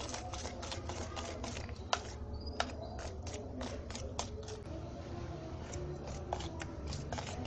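Metal spoon stirring a sticky glue-and-soap slime mixture in a container: a fast, irregular run of small clicks and squelches, several a second, over a steady low hum.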